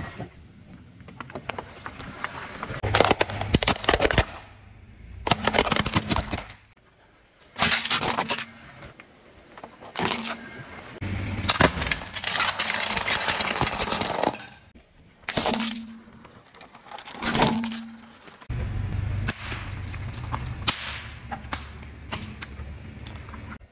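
Crunching and cracking as car tyres roll over and crush brittle objects: about eight separate bursts, some brief and some lasting a few seconds.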